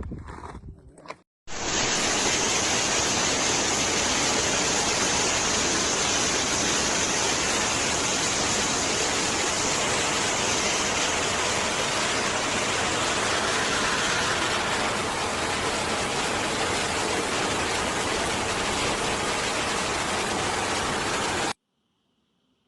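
Steady, dense rushing noise that starts abruptly about a second and a half in and cuts off suddenly near the end.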